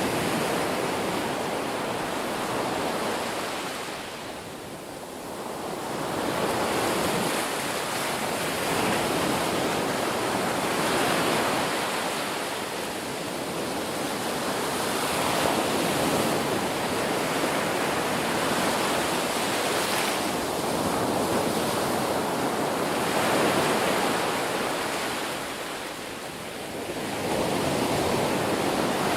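Ocean surf: waves breaking and washing in, a continuous rushing hiss that swells and eases, with lulls about five seconds in and again near the end.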